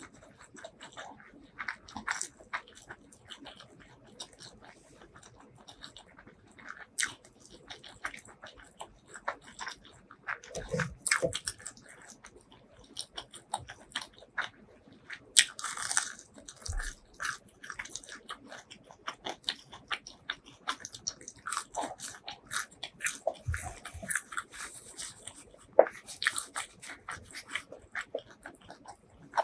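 Close-miked eating: irregular biting and chewing with crisp, crunchy crackles, busier in a few stretches.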